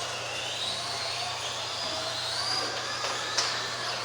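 Several RC racing trucks' electric motors whining as they lap, their pitches sliding up and down with throttle, with one short click about three and a half seconds in.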